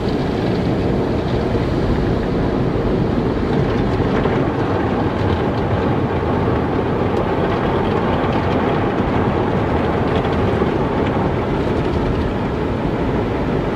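Car wash in operation: a steady rushing rumble of water spray and machinery that holds even throughout.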